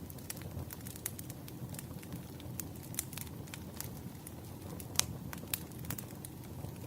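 Burning firewood crackling and popping, with irregular sharp snaps over a steady low rumble of flame; the loudest pop comes about five seconds in.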